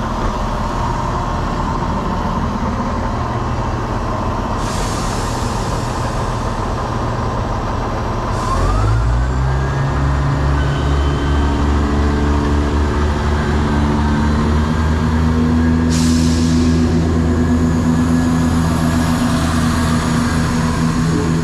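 Two-carriage diesel train's engine idling, with three short hisses of air. About eight seconds in, the engine revs up and holds a higher, louder note as the train pulls away.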